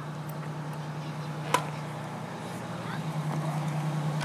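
Steady low engine hum that grows a little louder about three seconds in, with one sharp click about one and a half seconds in.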